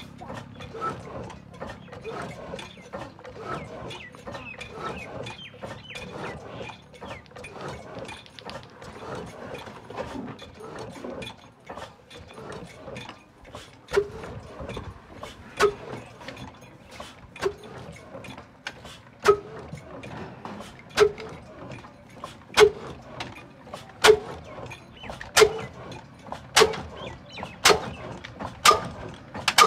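Sharp metallic knocks with a short ring, scattered and light at first, then regular from about halfway, coming faster toward the end.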